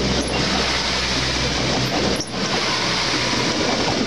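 Passenger train passing close by at speed: a loud, steady rush and rumble of wheels on rail, with two sharp knocks about two seconds apart.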